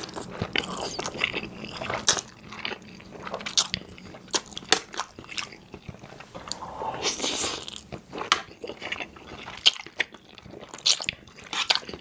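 Close-miked eating sounds of creamy pasta: wet chewing and biting with many sharp mouth clicks, and a longer wet sound about seven seconds in.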